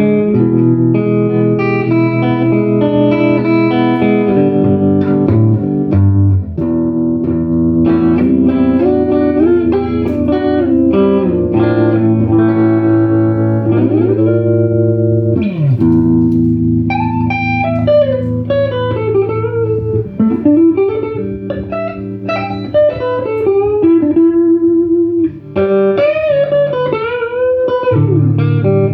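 Electric guitar played through a 1968 Fender Super Reverb tube amp with four 10-inch speakers: held chords in the first half, a couple of deep pitch dives around the middle, then single-note lead lines with string bends.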